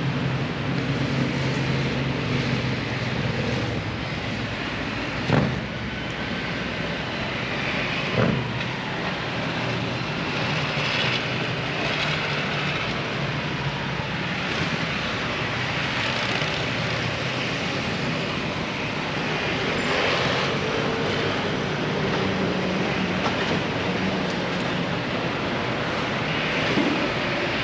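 City street ambience: a steady rumble of traffic with engine hum, and two sharp knocks about five and eight seconds in.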